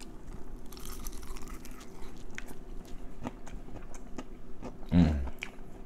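Close-miked chewing of food, fried chicken, with many small wet mouth clicks, and a brief hum of enjoyment about five seconds in.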